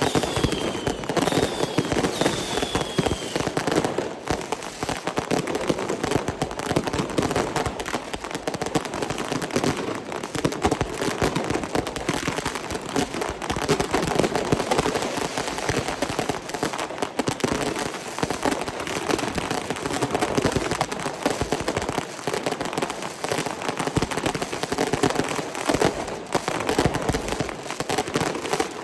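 Fireworks and firecrackers going off in a dense, continuous crackle of rapid bangs, with a few short falling whistles in the first few seconds.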